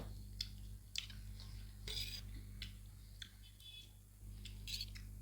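Noodle eating: a scattered series of short clicks, smacks and small clinks, about eight over a few seconds, over a steady low hum.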